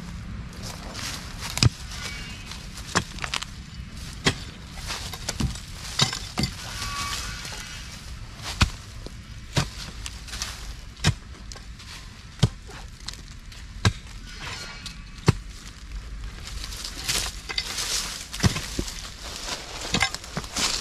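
A digging tool chopping into packed earth in steady strokes, about one every second and a half, with loose soil crumbling between blows.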